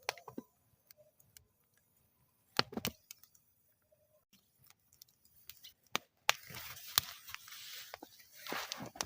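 Wood fire in a metal fire bowl crackling, with scattered sharp pops and bursts of crackle about three seconds in and near the end, and a stretch of hissing from about six seconds in.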